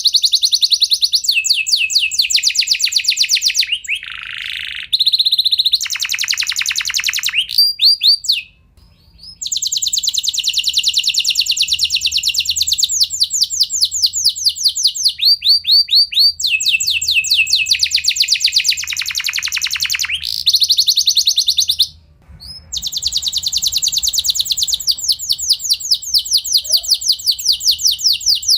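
Canary singing long rolls: fast, evenly repeated high notes strung into phrases of several seconds each, with brief breaks about eight and twenty-two seconds in.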